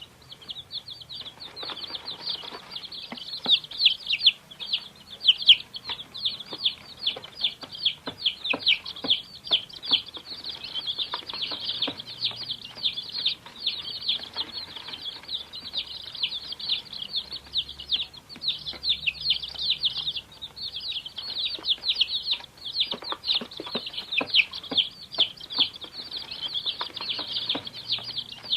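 Many baby chicks peeping together in a continuous, overlapping chorus of short, high, downward-sliding peeps.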